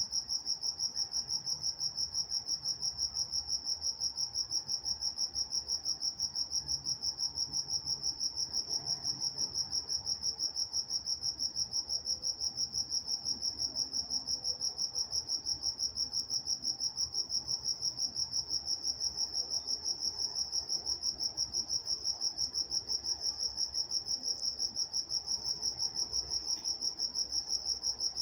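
A cricket chirping steadily in a fast, even rhythm at one high pitch.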